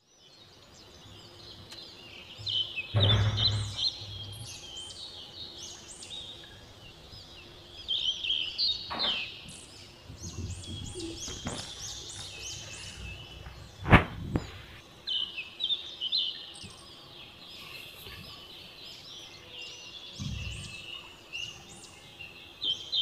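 Small birds chirping over and over in quick high calls, with a few dull knocks and one sharp click about fourteen seconds in.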